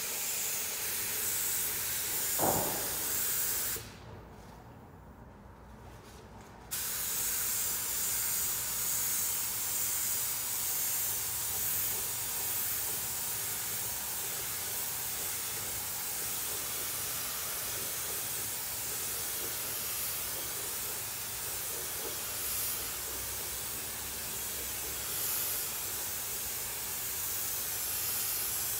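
Compressed-air paint spray gun hissing steadily as it sprays. The trigger is let go for about three seconds a few seconds in, then held again. A brief falling tone sounds about two seconds in.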